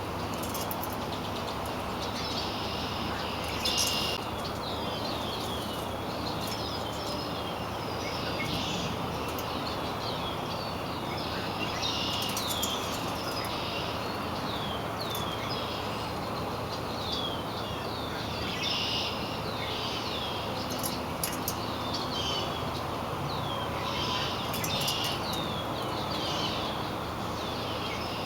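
Songbirds chirping and singing in quick runs of short, falling chirps, over a steady background hiss.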